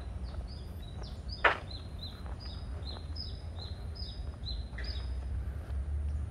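A small bird singing a quick run of short, high, falling chirps, about three a second, with one louder sharp sound about a second and a half in. Faint footsteps of someone walking on a paved path sit underneath.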